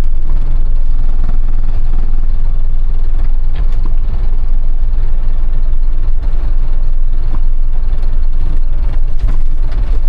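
Motorhome on the move: a steady, loud low rumble of its engine and the road.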